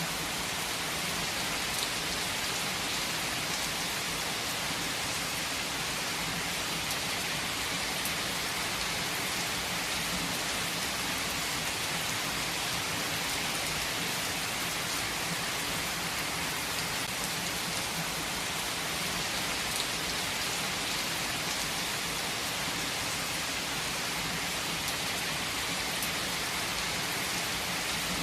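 Heavy rain falling steadily on a surface, an even hiss with faint individual drop ticks.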